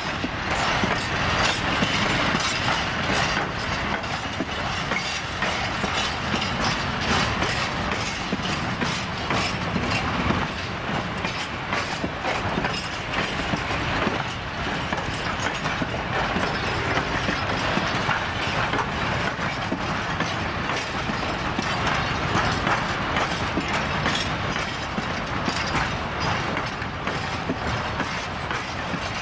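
Open-top freight wagons of a goods train rolling past, their wheels clattering steadily over the rail joints in a dense run of clicks and clanks.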